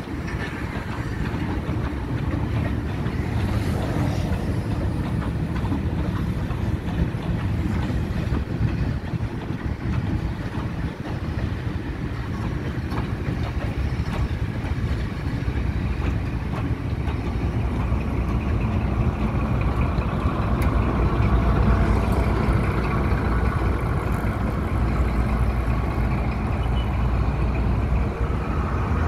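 A Sri Lanka Railways train rolling slowly past in reverse: steel wagons and coaches clatter steadily, with wheels clicking over the rail joints. In the second half the low drone of its Class W2 diesel locomotive grows louder as the engine passes.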